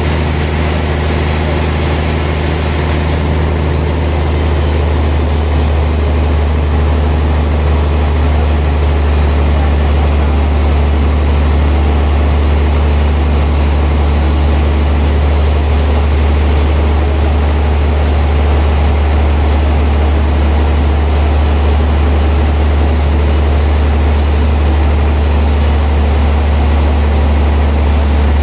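Sawmill machinery running steadily: a loud, unbroken low drone with a constant noise over it.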